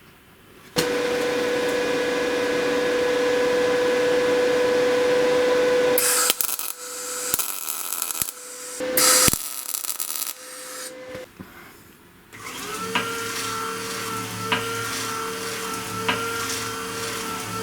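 Electric motor of a homemade belt grinder running with a steady hum, broken about six seconds in by harsh bursts of grinding as work is pressed to the belt. It stops briefly near the end and then runs again.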